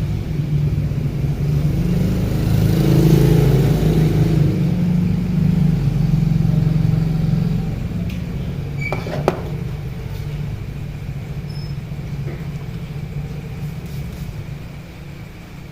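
A motor vehicle's engine running with a steady low hum, loud at first and fading gradually over the second half. A couple of short clicks sound about nine seconds in.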